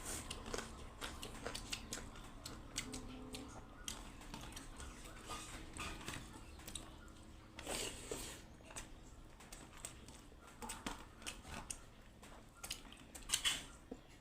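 A person eating close to the microphone: chewing with many small, irregular clicks, and two louder brief noises, one about eight seconds in and one near the end.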